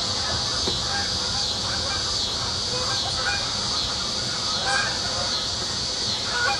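Litter of five-week-old German shepherd puppies squealing and yelping in short, high calls scattered all through, as they compete at a shared food pan, over a steady high hiss.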